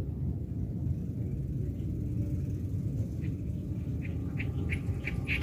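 A steady low rumble, with a bird's short chirps starting about three seconds in. The chirps repeat about three times a second and grow louder toward the end.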